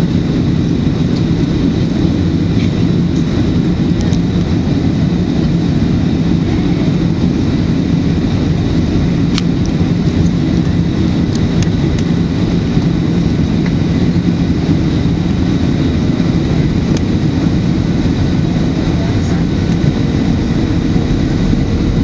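Steady in-cabin noise of a Boeing 737-900 in flight on approach, a constant low rumble of its CFM56 engines and airflow, with a faint steady high whine.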